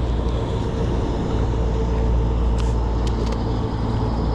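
Newport NK180 electric trolling motor on a kayak being throttled down to nothing: a thin steady motor whine over low wind and water rumble, the whine stopping about two-thirds of the way through.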